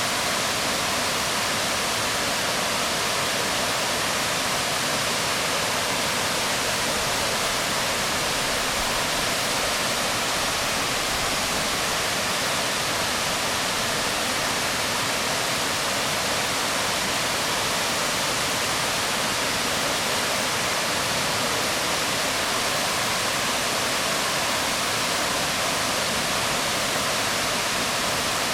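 Waterfall pouring onto rocks: a steady, unbroken rush of water.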